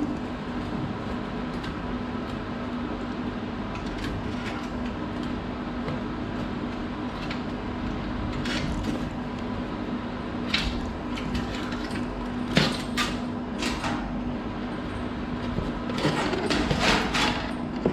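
Scattered short clicks and scrapes of a garage door cable being wrapped around its drum, coming thicker near the end, over a steady low hum.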